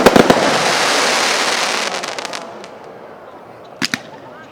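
Fireworks going off: a few sharp bangs at the start, then a dense crackling hiss that fades away over the next couple of seconds, and two quick pops near the end.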